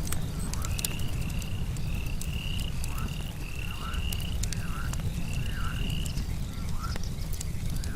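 Campfire crackling with scattered sharp pops over a low steady rumble, with frogs calling about once a second. A higher run of short repeated notes sounds from about a second in until about six seconds in.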